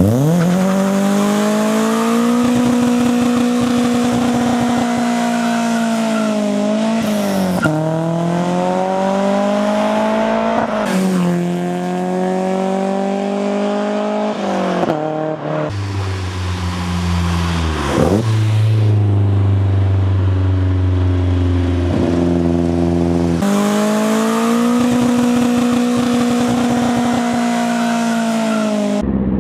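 BMW E30's S14B20 four-cylinder on individual throttle bodies revved hard and held at high revs during a burnout, with tyre squeal over the engine. The revs dip briefly a few times, settle to a lower steady note in the middle, then climb back high before cutting off near the end.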